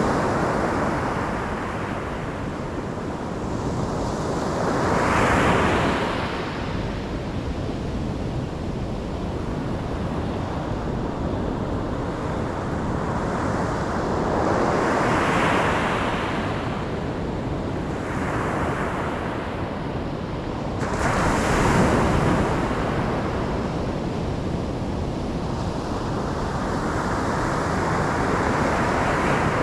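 Ocean surf: waves breaking and washing in over a steady rush, swelling and fading four times, the sharpest break about two-thirds through.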